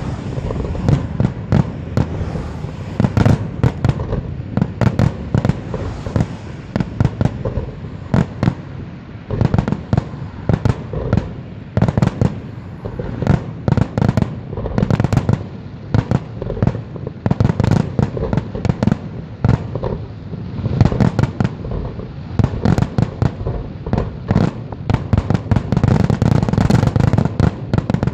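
Fireworks display: a rapid, continuous barrage of shell bursts and bangs with a low rumble beneath, growing denser near the end.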